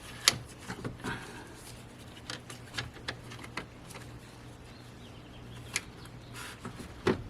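Scattered light clicks and taps of metal parts and hand tools being handled while the alternator pulley, spacer washer and bolt are fitted back on, with the sharpest click right at the start and a faint steady low hum underneath.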